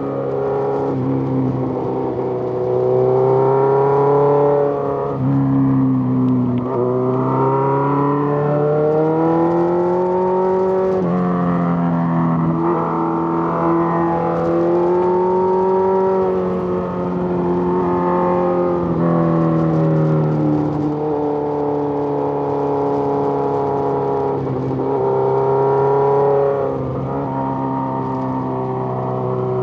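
Suzuki GSX-R1000 inline-four motorcycle engine running on the road. The engine note rises under throttle and drops back several times, with sharp drops about 5, 7, 11, 19 and 25 seconds in.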